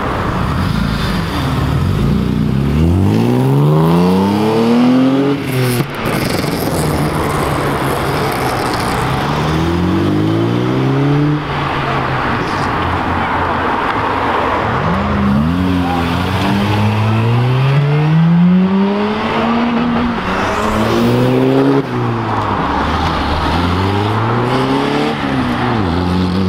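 Several cars accelerating hard one after another as they pull away, their engines revving up through the gears: each climb in pitch is cut short by a gearchange and starts again lower.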